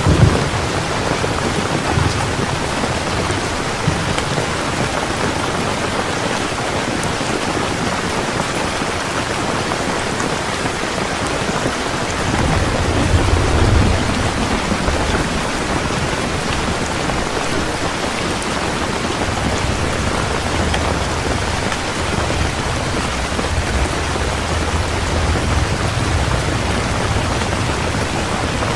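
Heavy rain falling steadily, with low thunder rumbling, loudest about halfway through and again in the second half.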